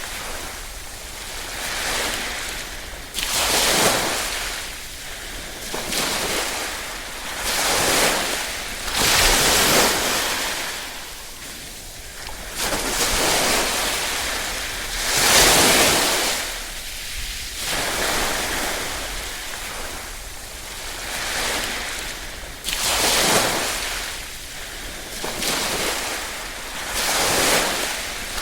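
Small waves lapping on a shore, the rush of water swelling and falling away every two to three seconds.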